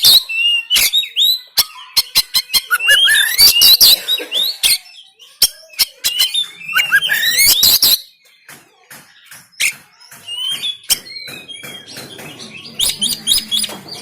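Oriental magpie-robin (kacer) singing in harsh bursts: quick gliding whistles packed with sharp clicking notes. There are four bursts, the loudest in the first half, with short quieter pauses between them.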